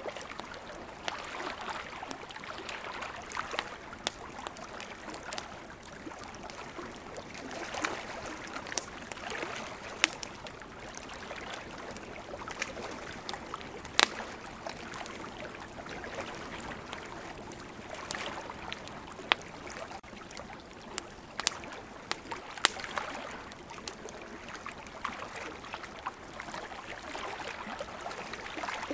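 Campfire crackling, with sharp pops every few seconds at irregular intervals, over a steady wash of water from the sea.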